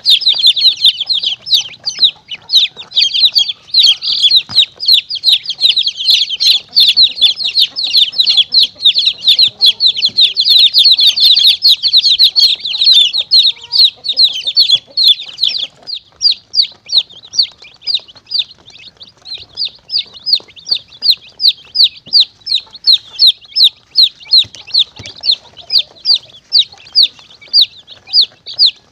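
Many baby chicks peeping: high, short calls falling in pitch, densely overlapped at first and thinning to steady single peeps about two a second after the midpoint. It is a chick-peeping recording played as a caller to lure predators such as monitor lizards and mongooses.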